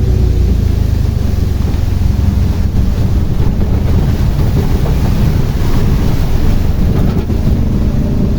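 Steady low rumble from riding in a tuktuk: its motor and road noise, with wind buffeting the microphone.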